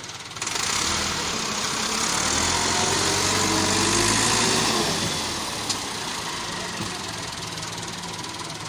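Tractor engine revved hard about half a second in, its pitch rising and then falling back. After about five seconds it settles to a steady, lower running sound, with one sharp click near the six-second mark.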